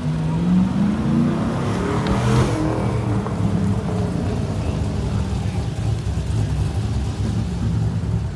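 A car engine revving up, rising in pitch over the first couple of seconds, then settling into a steady low running note.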